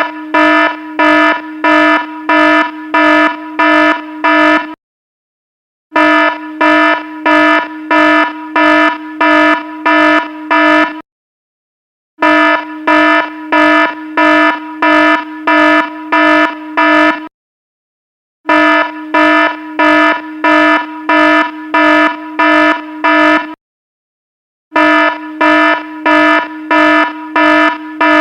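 Electronic alarm sound: a pitched tone pulsing about twice a second in bursts of about five seconds. Each burst is followed by a pause of about a second, and the pattern repeats.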